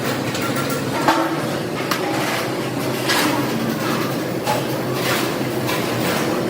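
Steady factory-floor machinery noise with a low hum, broken by a few sharp metal knocks and clanks, the loudest about a second in.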